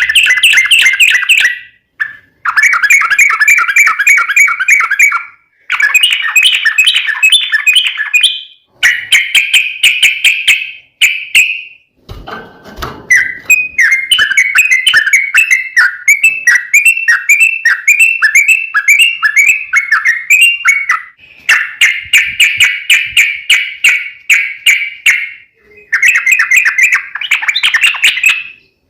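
Yellow-vented bulbul (trucukan) singing a run of rapid, bubbling chattering phrases, some several seconds long, with short pauses between them. A brief low rumble comes about twelve seconds in.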